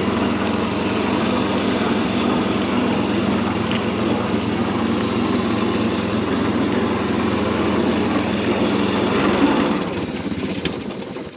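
Predator 212 single-cylinder four-stroke engine running steadily, then winding down and stopping about ten seconds in.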